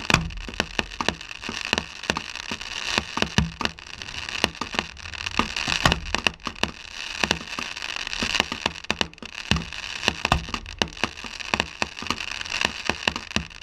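Fireworks display going off: many rapid, irregular pops and crackles, with a few heavier booms every second or two.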